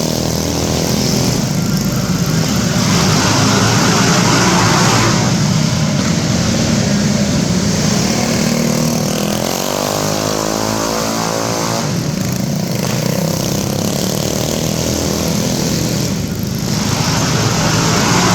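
Small minibike race engines running hard, their pitch rising and falling over and over as the throttle is opened and closed.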